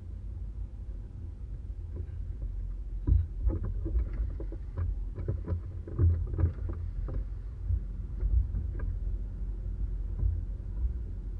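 Jeep engine running with a steady low rumble while crossing a creek. Irregular knocks and clunks, mostly from about three to nine seconds in, come with the crossing.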